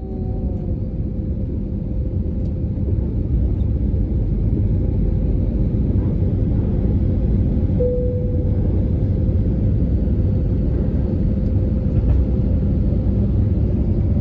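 Airplane engines making a steady, loud low rumble, with a steady whine on top that swells briefly about eight seconds in.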